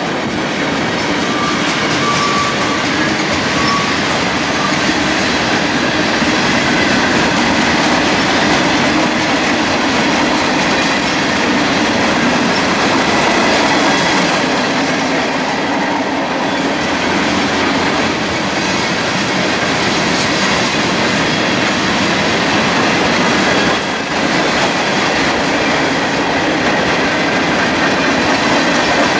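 A train passing close by: the loud, steady sound of its wheels rolling on the rails, continuing without a break.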